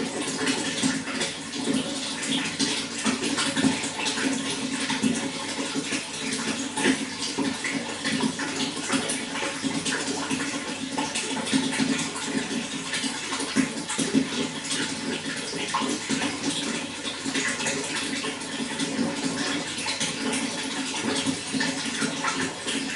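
Running water flowing steadily, a continuous rush dotted with many small splashes and drips.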